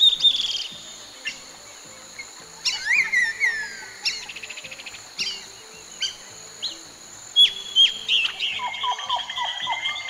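Birds calling in a forest: sharp chirps, falling whistles and a fast trill, over a steady high insect drone. The calling grows busier near the end.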